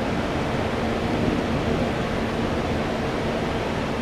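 Jet airliner engine noise: a steady rushing sound with a faint low hum that fades out about three seconds in.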